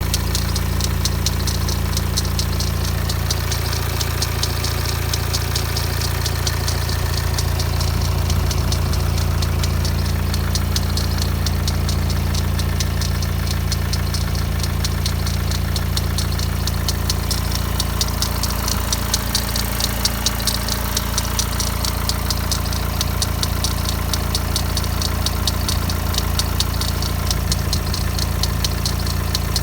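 BMW 116d diesel engine idling with a fast, steady metallic rattle from the idler pulley near the alternator, a noise that is easily taken for timing chain rattle.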